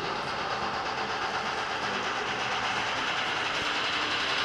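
Steady mechanical running noise with a rattle, slowly growing louder.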